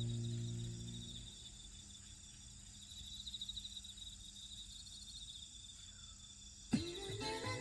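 Crickets trilling faintly in short high, pulsing chirps. A music track fades out at the start, and another begins abruptly near the end.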